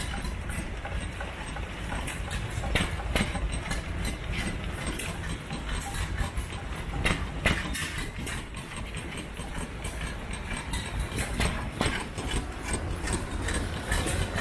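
1910 Fielding and Platt oil engine running on its own, warm, with a steady low running sound and sharp irregular clicks over it.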